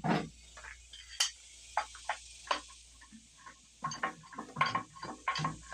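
Dodge 360 V8 being turned over by hand with a breaker bar on the crank bolt, giving an irregular series of metallic clunks and clicks. The owner takes them for a knock in the bottom end, more than slack between the breaker bar and the crank bolt, and suspects a failing connecting rod.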